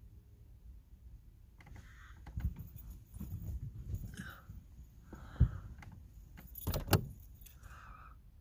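Someone shifting about inside a small car's cabin: rustling and light clattering with a few sharp knocks, starting about two seconds in.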